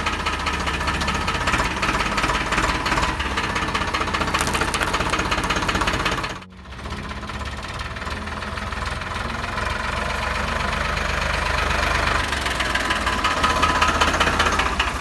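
Tractor engine running, with a fast, even firing rhythm. The sound drops out briefly about six and a half seconds in, then picks up again.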